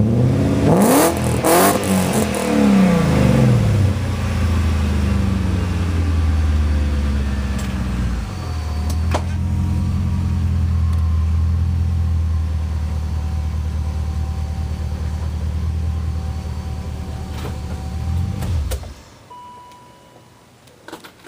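1998 BMW 540i V8 through a loud Magnaflow muffler: several quick revs in the first few seconds, then a steady idle that cuts off suddenly about nineteen seconds in.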